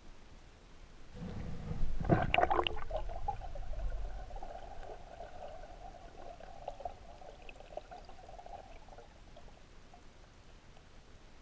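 Water splashing and gurgling around the microphone, starting about a second in, loudest just after, then settling into a steadier bubbling that fades out.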